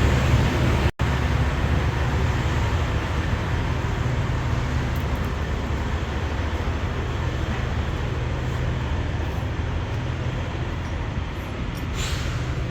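Steady low drone of a heavy truck's diesel engine, cutting out for an instant about a second in.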